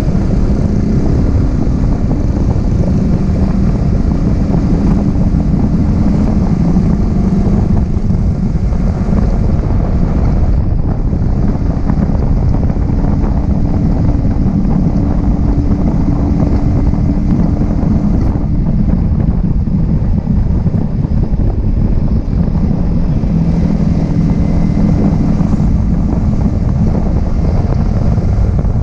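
Yamaha R15M's 155 cc single-cylinder engine running under way at steady revs, its note shifting a little now and then. Heavy wind buffeting hits the action-camera microphone the whole time.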